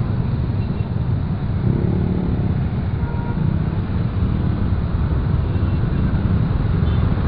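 Motorcycle riding in road traffic: a steady low rumble of engine and road noise.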